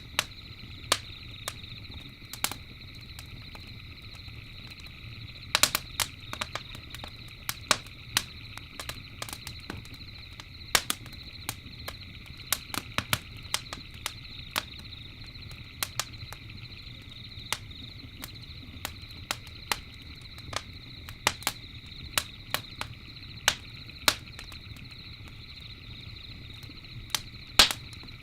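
Campfire crackling, with irregular sharp pops scattered throughout, a few louder ones, over a steady high chorus of night insects.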